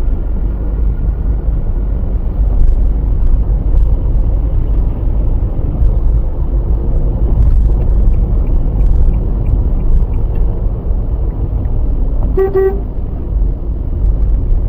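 Steady low rumble of a car on the road, heard from inside through a dashcam. About twelve seconds in there is one short car-horn honk.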